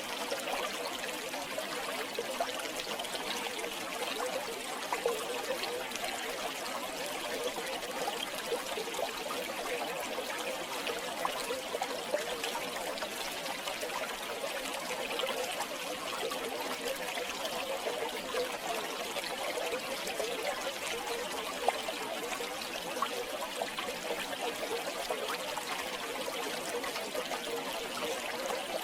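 River water flowing and trickling steadily, with many small splashes and bubbling clicks.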